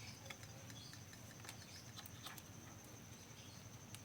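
Near silence: faint room tone with a few scattered soft clicks and ticks.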